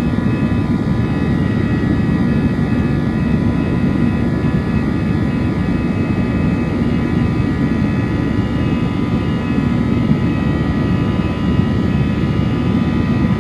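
Airbus A321 jet engines running during takeoff: a steady, loud low roar with several steady whining tones above it.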